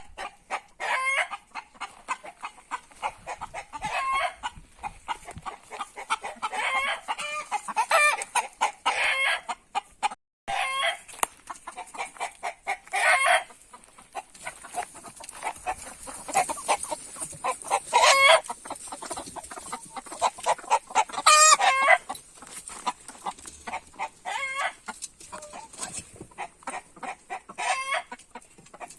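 A flock of domestic chickens clucking without pause, with louder drawn-out calls every few seconds, among them a rooster crowing.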